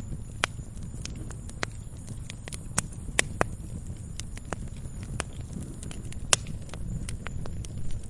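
Wood fire crackling in a fireplace: irregular sharp pops and snaps, a few louder ones about three and six seconds in, over a steady low rumble of the flames.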